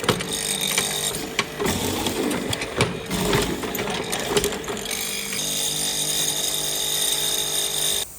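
A woodworking power tool running steadily, with sharp knocks of work against it in the first half that give way to a smoother, steadier run.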